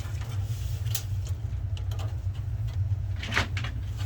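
A steady low hum underneath a few light clicks and rustles of furnace wiring and plastic connectors being handled.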